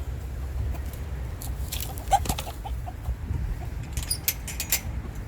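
Chickens clucking with a few short calls as they are let out of the coop, mixed with a scatter of sharp clicks and rattles and a steady low rumble underneath.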